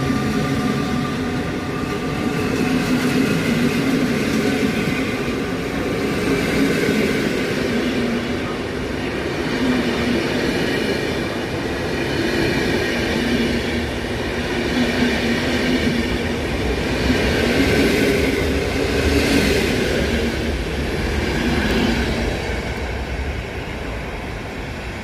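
Electric-hauled passenger train departing: coaches rolling past on the rails with a steady loud rumble and wheel noise, fading slightly near the end.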